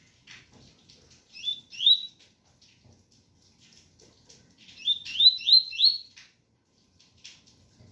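Double-collared seedeater (coleiro) singing its 'tui tui' song: a pair of rising whistled notes about one and a half seconds in, then four quick rising notes about five seconds in, over faint rain sound.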